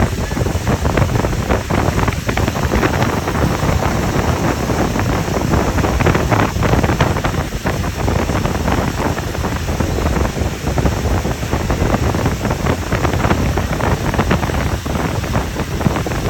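Wind buffeting the microphone: a loud, rough, uneven rumble with no pitched tone in it.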